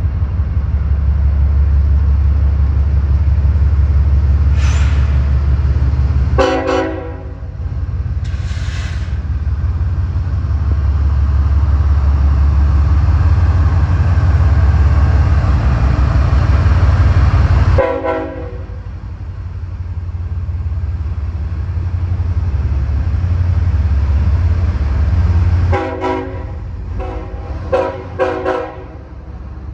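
A train passing with a heavy, steady low rumble while its locomotive horn sounds in short blasts: one about a third of the way in, another past the middle, and a quick run of several toots near the end.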